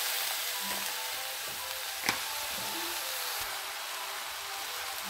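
Stir-fried noodles sizzling in a hot wok over a gas burner: a steady hiss, with one sharp clink about two seconds in.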